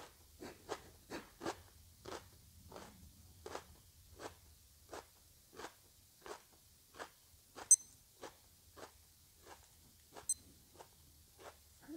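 Steady chewing of a fresh chili pepper, soft crunches about one and a half a second. Two sharp high clicks come in the second half.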